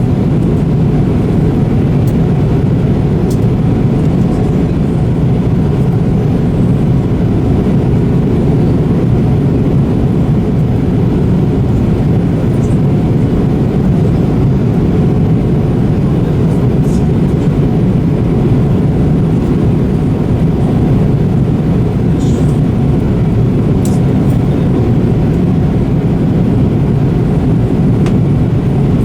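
Airliner cabin noise: the steady, even sound of the jet engines and the air rushing past the fuselage, heard from a passenger seat, with a few faint small ticks.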